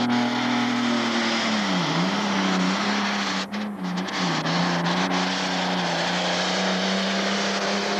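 Pro stock pulling tractor's turbocharged diesel engine running hard under load during a pull. It holds a steady high drone that dips in pitch briefly about two seconds in and again about four seconds in.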